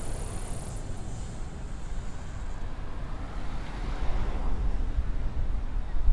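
A car passes; its tyre noise swells and fades about four seconds in. Wind buffets the microphone throughout with a steady low rumble.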